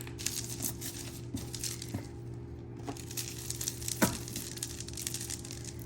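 Tangled costume jewelry being handled: chains, beads and pendants clinking and rustling in light, irregular clicks, with a few sharper ticks. A steady low hum lies underneath.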